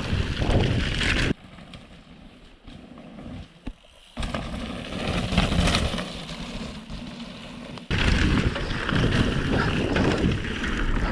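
Mountain bike running fast down a rough forest trail: the rattle and rumble of tyres and bike on dirt and rock, with wind buffeting the helmet camera's microphone. The noise drops off abruptly about a second in, stays much quieter for a few seconds, and comes back in full near the end.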